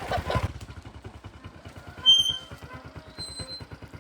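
Small motorbike engine idling with an even low pulse. About two seconds in comes a short, high-pitched beep, the loudest sound, followed a second later by a fainter high tone.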